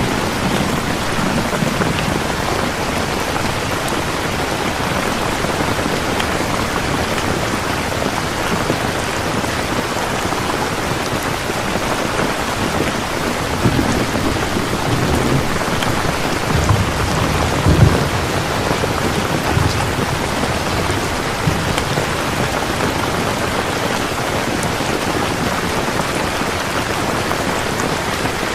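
Steady rain falling, with several low rumbles of thunder in the middle.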